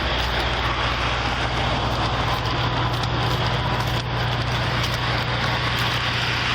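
Steady low hum of idling vehicle engines under a constant crackling hiss.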